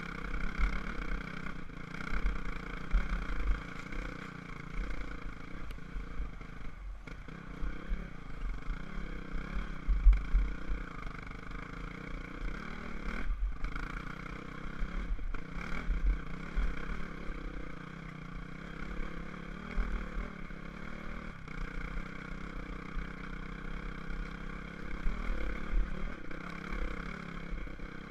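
Enduro dirt bike engine running steadily under way, with an uneven low rumble underneath.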